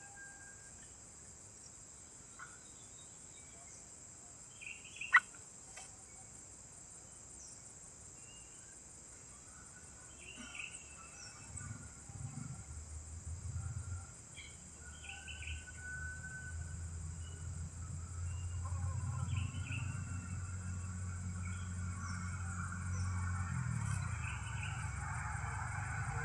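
Scattered short bird chirps over a steady high insect drone, with one sharp click about five seconds in. From about halfway a low engine hum comes in and grows steadily louder, like a vehicle approaching.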